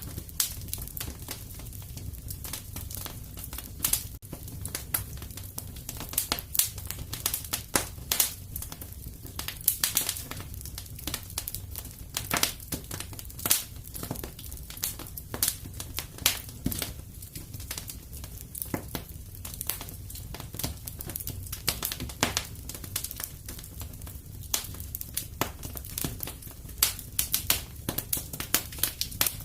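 Wood fire burning in a fireplace: a steady low rumble of flame with frequent irregular crackles and sharp pops from the burning logs.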